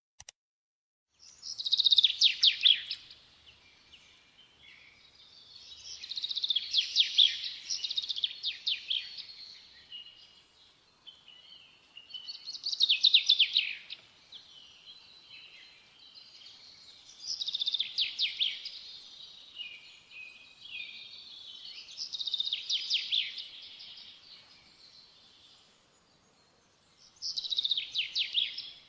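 A songbird singing six short phrases of high, rapid trills, each two to three seconds long and about five seconds apart.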